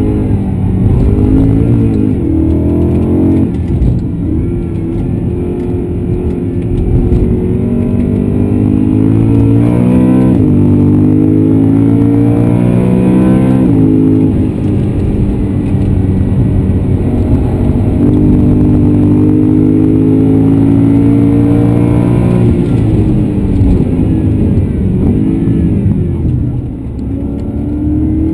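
BMW M3 E92's V8 engine heard from inside the cabin, accelerating hard on a race track. It revs up with a sharp pitch drop at each upshift, a few seconds in and again at about ten and fourteen seconds in, then holds a steady high pitch. Near the end it falls and blips as the car brakes and shifts down, and it rises again at the very end.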